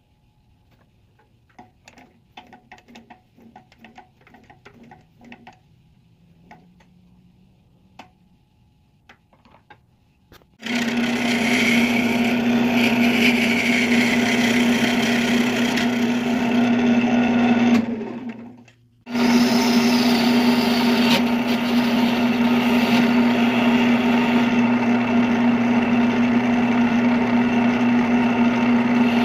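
A few light clicks and taps, then an electric woodworking power tool starts and runs steadily with a strong, even hum. It stops for about a second, two-thirds of the way through, and starts again.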